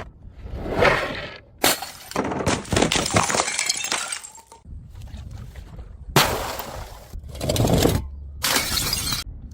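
Glass bottles smashing on stairs, one after another: a quick series of separate crashes with glass shattering and shards scattering.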